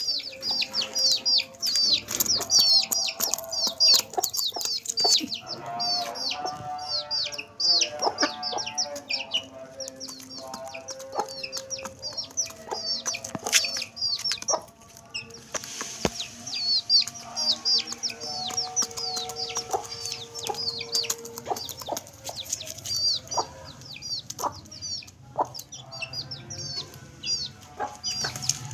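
Chicks peeping constantly in quick, high, falling chirps, with a hen clucking lower, typical of a hen calling her chicks to food.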